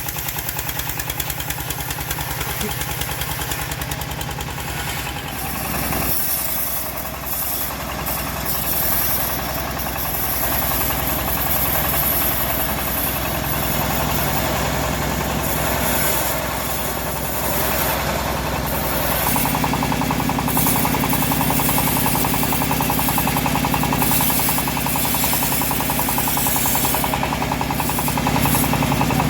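Homemade bandsaw mill's engine running steadily; its note changes about six seconds in and again about nineteen seconds in.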